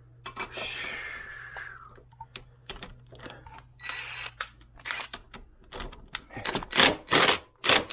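Hand tools working a seized nut clamped in a bench vise. Scattered metal clicks and scrapes come over a low hum, then a fast run of loud rasping strokes about three a second near the end.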